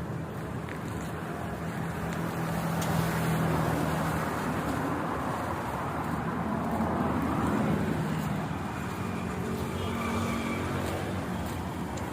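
Car engine and road traffic noise, a steady low hum with the sound of vehicles swelling and fading twice.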